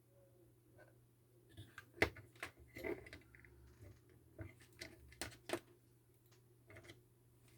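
Irregular light clicks and knocks, a dozen or so, the sharpest about two seconds in.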